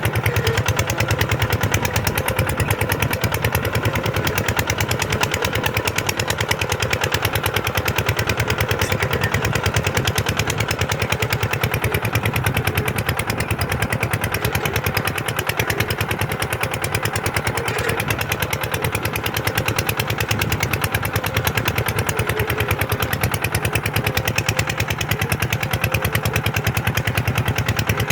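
Kubota tractor's diesel engine running steadily under load while ploughing sand, with a fast, even firing beat.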